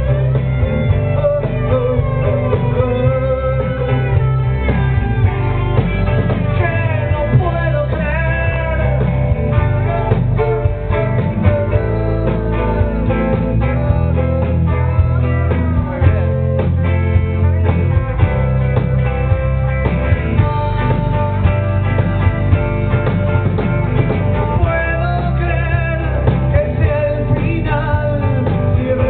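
A rock band playing live, with a sung vocal over guitar, bass and drums.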